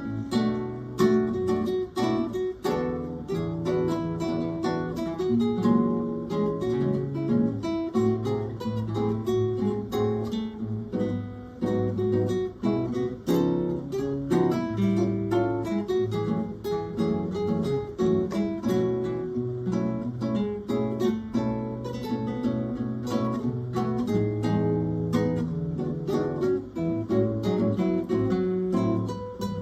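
Acoustic guitars playing an instrumental tune together, a steady run of plucked notes over chords.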